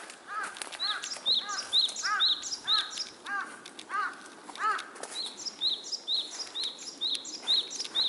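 Two songbirds calling at once in woodland, each repeating one short arched note over and over. One gives lower, fuller notes about two to three a second and falls silent about five seconds in; the other gives higher, sharper notes at a similar pace, pausing in the middle and starting again.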